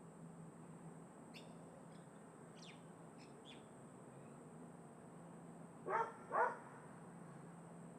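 A crow cawing twice in quick succession about six seconds in, two short harsh calls, with a few faint small-bird chirps earlier.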